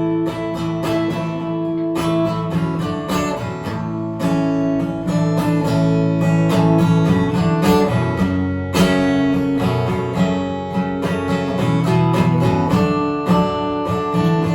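Live music: an instrumental break with strummed guitar chords played in a steady rhythm, without singing.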